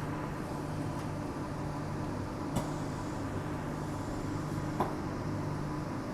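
Steady electrical hum of a Walkers A-series electric multiple unit standing at a platform with its doors open, heard inside the carriage, with two short clicks partway through.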